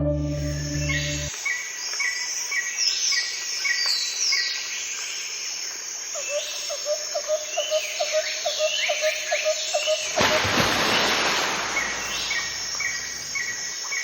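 Birds chirping over outdoor ambience, with repeated short high calls and a run of quick lower notes. Soft background music cuts off about a second in, and a brief rush of noise comes about ten seconds in.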